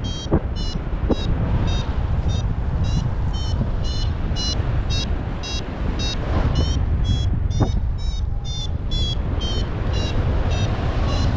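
Paragliding variometer beeping in short high tones, about two to three a second with slightly shifting pitch, the sign that the glider is climbing in lift. Under it, steady wind rushing over the microphone.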